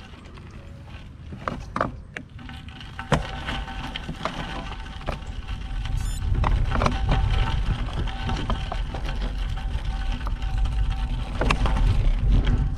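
Road bike being ridden, its tyres crunching and rattling over a rough lane with scattered clicks and knocks. Wind buffets the microphone, with a low rumble building from about halfway through.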